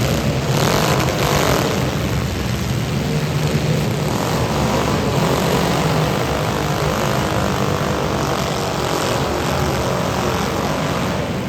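Demolition derby cars' engines running loud, with a rough, steady low drone and one engine's pitch rising and falling near the start.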